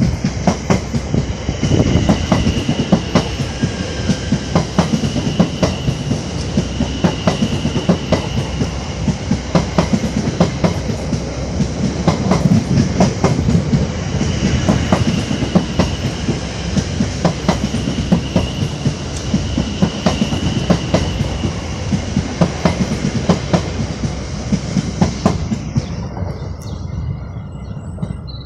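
Two coupled Class 720 Aventra electric multiple units passing at close range: a heavy rumble of wheels on rail with a rapid, uneven clatter of wheel clicks over joints, and a high ringing tone that swells and fades. The noise thins out near the end as the last coach draws away.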